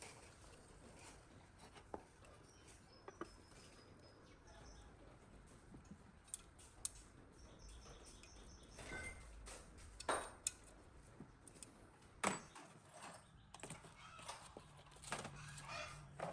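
Faint, scattered clicks and light metallic clinks, as of small metal parts being handled and set down, a few of them louder near the middle. Faint bird chirps sound in the background.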